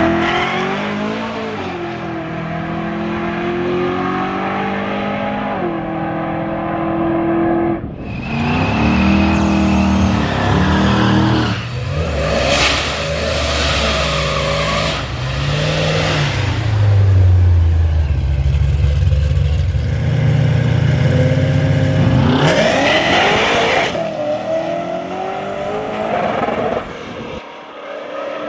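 Car engine revving hard several times, its pitch rising and falling, with stretches of loud hissing noise in between.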